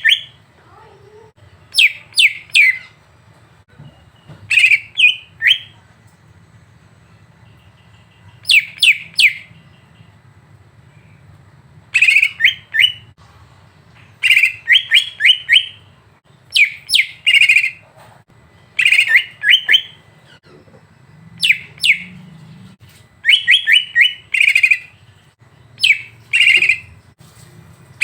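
Songbird calls from a masteran recording meant to provoke a cucak ijo: short bursts of three to five sharp, chattering notes, repeated about every two seconds. A faint steady low hum runs underneath.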